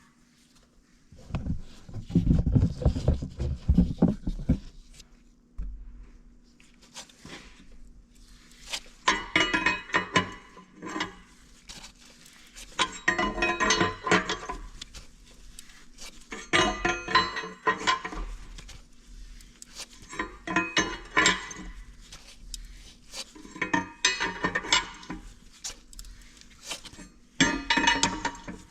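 Metal-on-metal clinking and rattling from tools and parts while cylinder liners are pulled from a Detroit Diesel 4-53T engine block. It comes in short bursts about every three to four seconds, after a heavier low rattle about a second in. A faint steady hum runs underneath.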